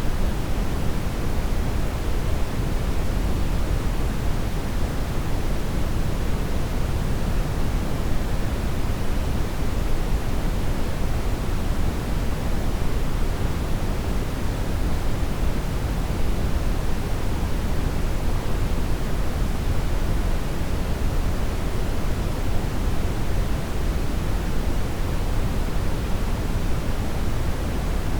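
Steady brown noise: an even, deep hiss without tones or breaks, strongest in the low end and thinning toward the top.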